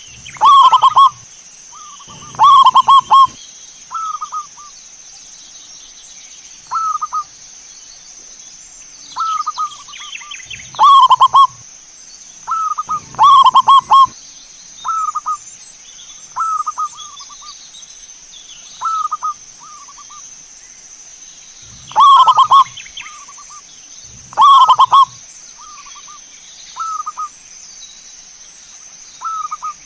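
Zebra doves (perkutut) cooing. Three times, a pair of loud, rattling coos comes about two seconds apart, and shorter, fainter coos repeat every second or two in between.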